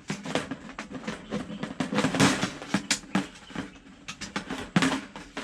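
Thin metal plates of a compact folding fire stand being handled and clipped together, giving a string of irregular clicks and clanks.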